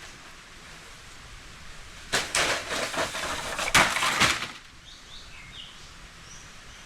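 A burst of rustling and crackling, with a few sharp cracks, about two seconds in and lasting some two seconds, then a few faint bird chirps.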